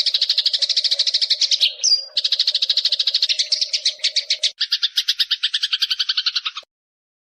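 Eurasian tree sparrow giving its long rapid chattering call (recetan), a fast even run of more than ten notes a second, with a brief higher whistled note about two seconds in. About halfway through the chatter turns lower and harsher, then cuts off suddenly near the end.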